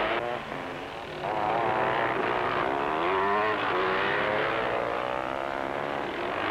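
Scramble motorcycle engines revving hard, their pitch repeatedly rising and falling as the riders work the throttle over rough ground, with a brief easing just under a second in.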